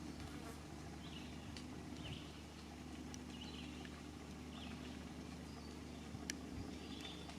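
Small birds chirping in short calls, roughly one a second, over a steady low hum.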